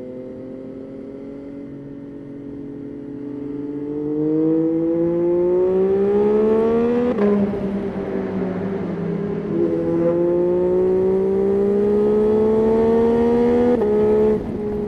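Yamaha Tracer 9's 890 cc inline-three engine accelerating hard, its pitch climbing steadily and growing louder. It drops sharply at an upshift about seven seconds in, climbs again, and drops at a second upshift near the end.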